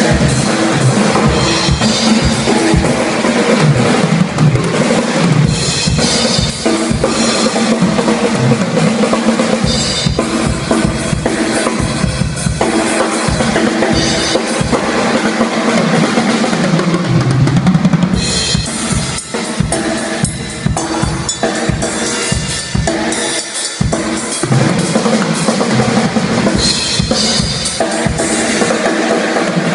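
Tama drum kit played at a sound check: kick drum and snare with rolls and fills, hit after hit without a break.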